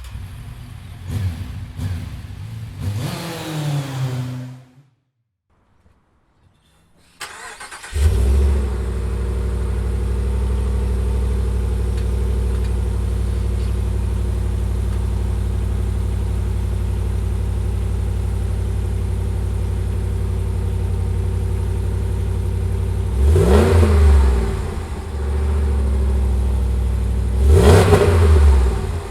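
Ram 1500's 5.7 HEMI V8 starting up about eight seconds in, with a brief flare, then settling into a steady idle through the exhaust. It is revved twice in quick blips near the end.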